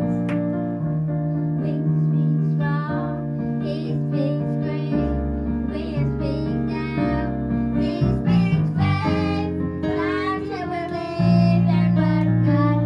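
Youth gospel choir singing with keyboard and band accompaniment, over held low bass notes.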